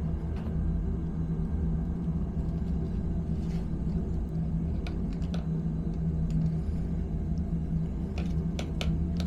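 Steady low hum of a running machine, with a few light clicks and taps, several of them near the end.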